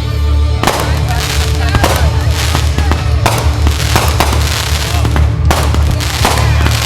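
Consumer fireworks going off in a rapid barrage: many sharp bangs and crackles following one another closely, with denser volleys every second or so.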